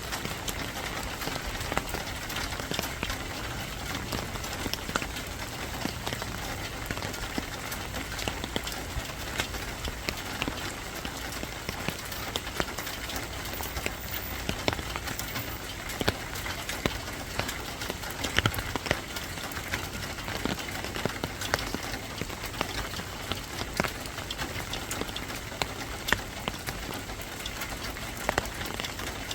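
Steady rain falling, with a constant hiss and many close drops ticking sharply on a hard surface.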